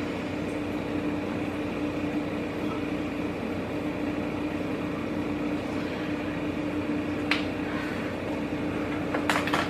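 Steady mechanical hum with one constant tone, like a room air conditioner or fan running. A single light click about seven seconds in and a few small clicks near the end.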